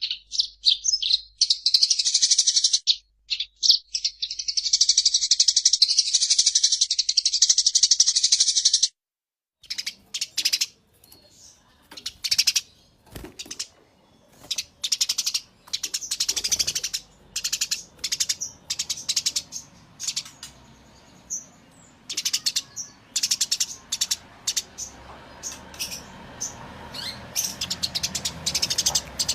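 Eurasian tree sparrows giving fast, excited fighting chatter. A dense unbroken run of high chirping for about the first nine seconds breaks off, then resumes as separate chirps over a faint background noise.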